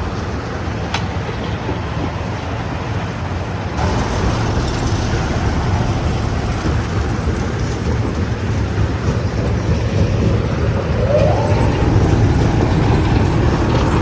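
Stone crusher running: steady, heavy machine noise that gets louder about four seconds in.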